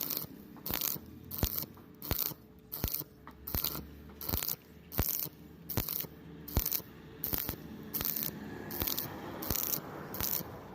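Welding arc on thin metal struck in short, regular bursts, about three every two seconds, with a faint crackle between them.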